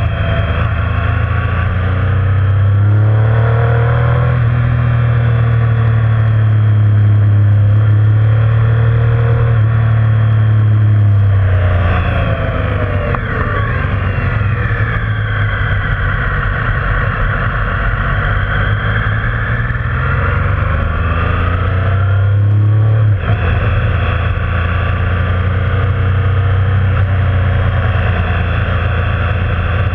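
Motorcycle engine running under way, its pitch rising and falling with the throttle and shifting several times through the gears, over a steady rush of road and wind noise.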